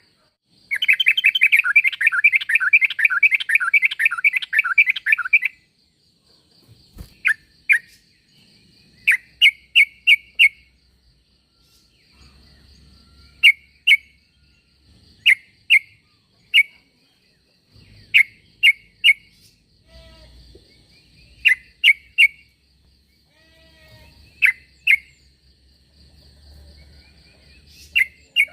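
Yellow-vented bulbul (trucuk) calling. A long, fast chattering burst lasts about five seconds, followed by short groups of two to four sharp notes every second or two.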